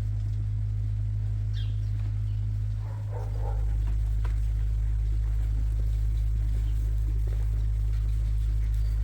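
A steady low hum, from a machine running in the sheep barn, carries throughout, dipping briefly about three seconds in. A couple of faint sheep bleats sound over it, one about one and a half seconds in and another about three seconds in.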